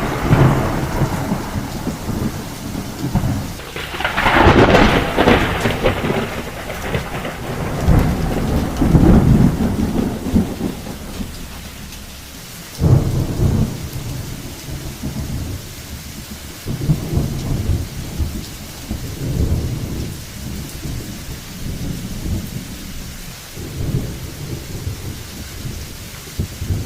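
Steady rain with rolling thunder, the low rumbles swelling and fading several times, loudest about four to six seconds in.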